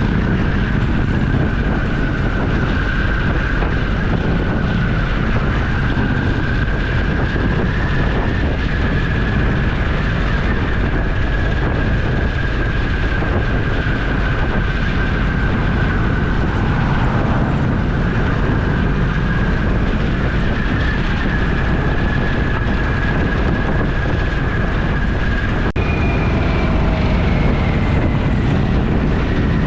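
A motorcycle at a steady cruise: engine running under wind rush on the helmet or bike-mounted camera's microphone, with a thin steady whine above it. About 26 seconds in there is a sharp click, after which the whine sits higher and slowly falls.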